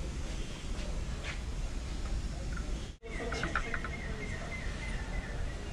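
Steady outdoor background noise with a few faint, short bird chirps about three seconds in.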